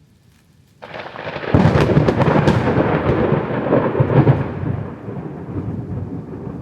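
A thunderclap: a sudden crack about a second in, with crackling peaks over the next few seconds, then a rolling rumble that slowly dies away.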